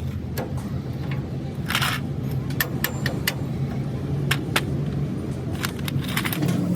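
An engine running steadily, its pitch rising a step near the end, with scattered sharp clicks and taps over it.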